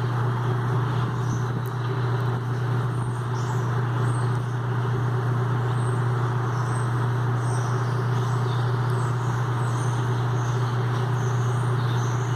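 A large mixed flock of blackbirds (European starlings, red-winged blackbirds and common grackles) chattering and calling continuously, with many short high calls, over a steady low hum that is the loudest sound.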